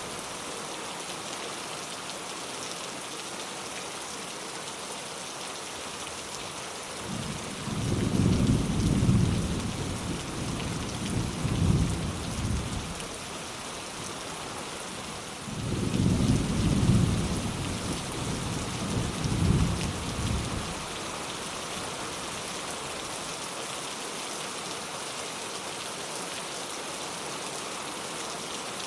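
Steady rain with two rolls of light thunder, the first starting about seven seconds in and the second about fifteen seconds in, each rumbling for around five seconds.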